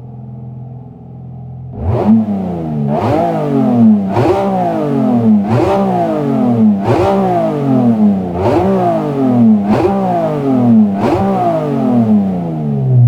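BMW S54B32 3.2-litre naturally aspirated inline-six idling, then blipped about eight times in quick succession. Each blip jumps sharply in pitch and falls back toward idle over about a second.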